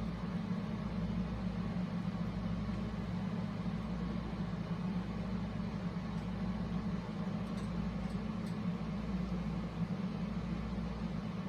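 Steady low background hum, with a couple of faint light clicks a little past the middle.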